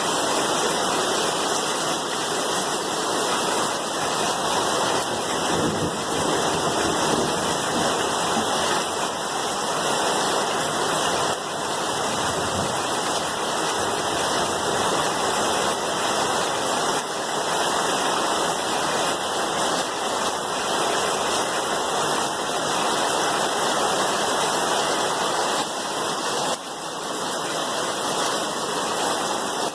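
Steady, even rainfall with no pauses, and a brief drop in level near the end.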